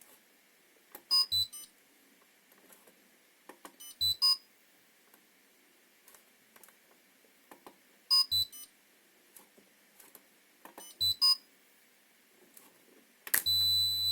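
Washing-machine control board beeping in short clusters of high beeps, about every three to four seconds, as it is powered up in test mode. Near the end a longer steady tone with a low hum sets in.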